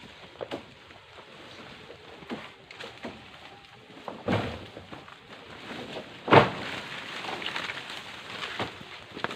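Scattered light knocks over background noise, with two louder thumps about two seconds apart, the second one the loudest.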